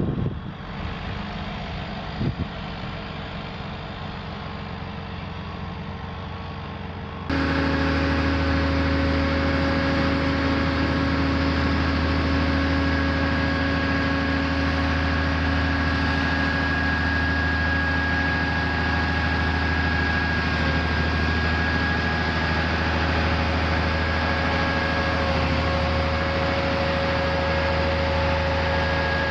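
Heavy diesel engine of a heavy-haulage transporter running steadily at idle. About seven seconds in it abruptly becomes much louder and nearer, with a steady whine over the low hum.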